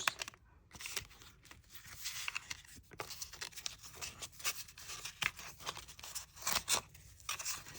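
Paper stickers and paper pieces being handled and sorted by hand, making irregular light rustling, scraping and crinkling.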